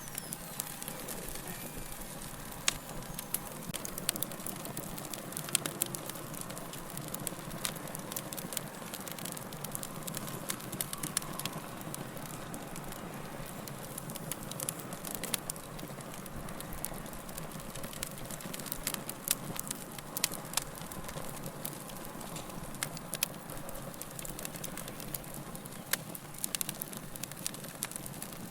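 Wood fire crackling steadily, with frequent sharp pops and snaps from the burning logs over a low, even rush of flame.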